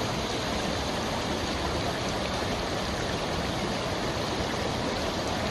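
Steady rush of a waterfall running high and wide after heavy rain.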